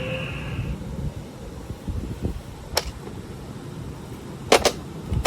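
Plastic toy monster truck being handled and rolled: a low rumble, with one sharp plastic click a little under three seconds in and a quick double click past four and a half seconds. The tail of the toy's electronic tone fades out in the first second.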